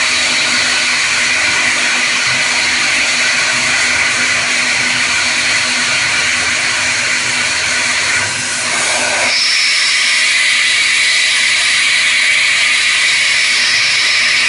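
CNC machine running during a cut: a steady hiss with several steady whining tones. The sound shifts about eight to nine seconds in, and a higher whine sounds briefly just after.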